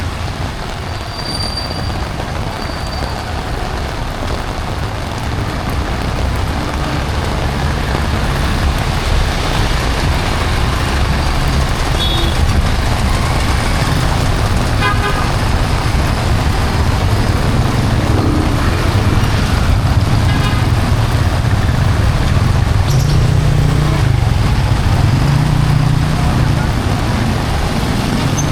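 Heavy rain falling on a city street, with road traffic running through it and a low engine rumble that builds toward the end. A few short horn toots sound in the middle.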